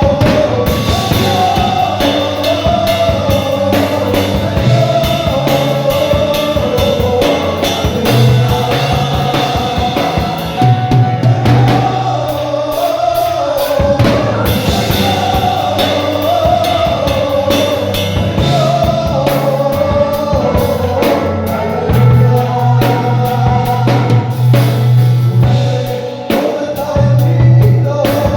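Live worship music: a sung melody over a band with drum kit and bass, playing steadily.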